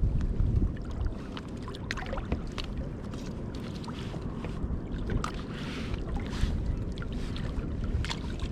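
Wind buffeting the microphone and sea water moving against a kayak, with scattered small knocks and clicks throughout.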